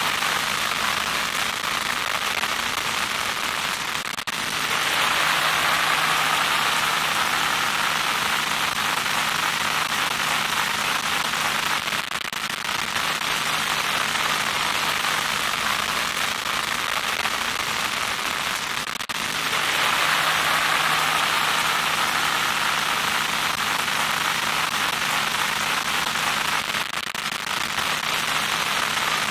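Loud crackling static noise with a faint steady hum underneath. The hiss swells louder and brighter twice, for about eight seconds each time.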